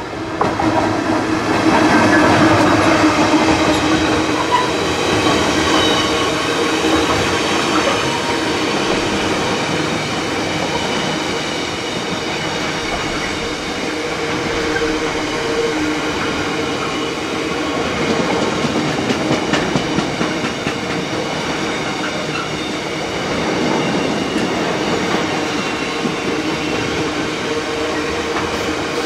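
Freightliner diesel locomotive hauling a long container freight train past at speed. The locomotive's engine is loudest in the first few seconds, then the container wagons keep rolling by with a steady rumble, wheel clatter and a steady humming tone.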